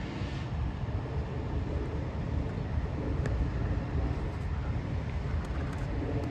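Fire engine running steadily with a low rumble, with one faint click about three seconds in.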